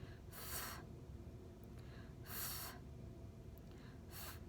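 A woman's breathy, drawn-out 'fff' sound, made three times, each about half a second long: the phonics sound /f/ being said on its own for children to copy.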